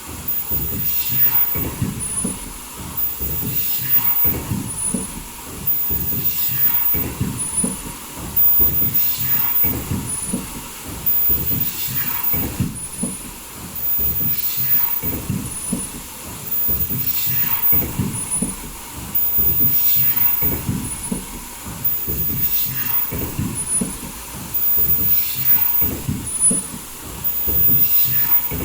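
Foldable N95 mask production line running, cycling about every two seconds, with mechanical clatter and short hisses of air on each cycle.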